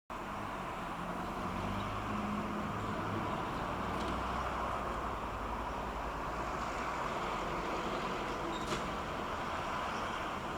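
Cargo ship's engine running steadily as it passes, a low hum under a broad rush of noise, with one short click late on.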